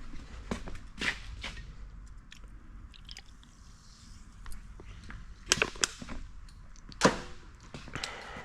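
Irregular clicks, knocks and clatters of engine parts and tools being handled on a workbench. The sharpest cluster comes a little past halfway.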